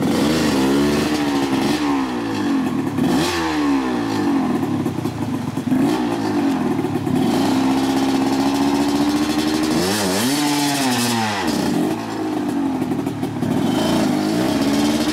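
Dirt bike engine revving up and down as the throttle is worked on and off. Its pitch dips sharply about three seconds in and again about ten seconds in.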